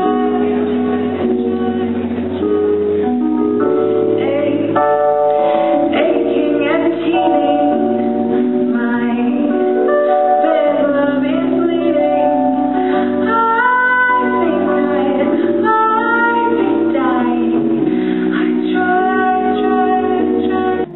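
Live pop song: a woman singing a melody over sustained instrumental chords, with held notes and no pauses.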